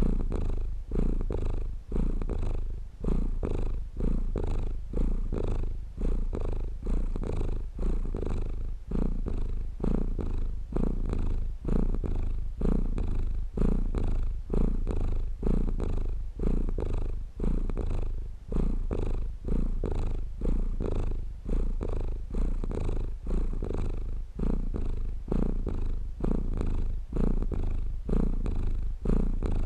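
Domestic cat purring steadily, a low rumble that swells and dips with each breath in and out, about one breath cycle a second.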